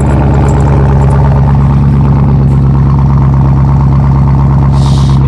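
Chevrolet Camaro 2SS's 6.2-litre V8 idling loud and steady through a muffler delete, with a deep, even exhaust note and no revving.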